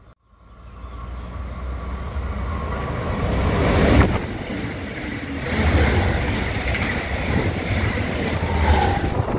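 Regional electric multiple unit train, a BRB Stadler FLIRT, running past close by with its wheels rumbling and clattering on the rails. The sound swells in over the first second and stays loud, with one sharp knock about four seconds in.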